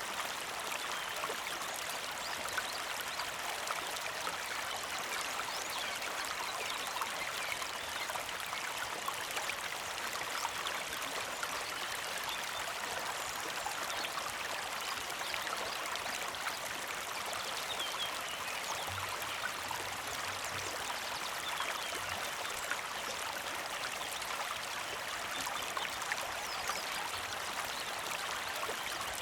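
A small creek flowing and trickling steadily, a continuous rush of water with many small splashes.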